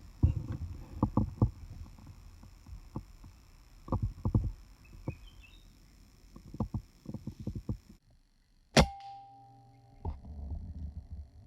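Irregular low knocks and rustles of handling and movement, then one sharp, loud shot about nine seconds in, with a short ringing tail: a hunting shot at birds.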